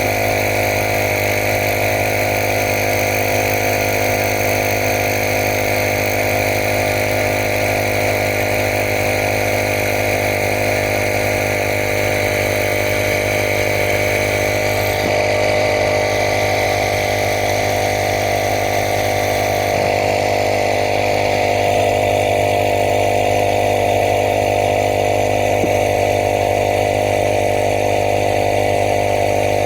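Steady machine drone made of several fixed tones, unchanging throughout.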